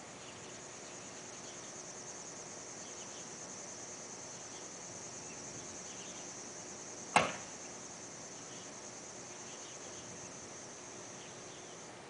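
Insects trilling steadily in a high, continuous buzz, with fainter chirps beneath, as on a summer night. About seven seconds in, a single sharp crack cuts through, brief and much louder than the insects.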